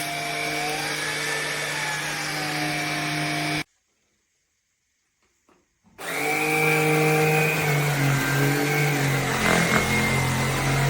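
Tineco A30S cordless stick vacuum's motor running with a steady whine. It cuts off abruptly about a third of the way in, and after about two seconds of silence with a few faint clicks it runs again, its pitch shifting as it works.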